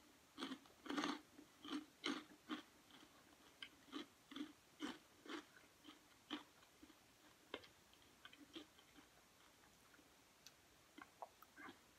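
Faint crunchy chewing of a rice cracker, with crunches about two a second at first, thinning out to occasional ones in the second half.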